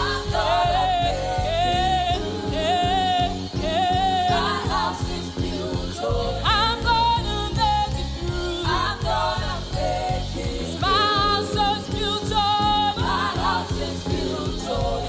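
Live gospel worship music: a singer's voice carrying a melody over a band with a steady beat.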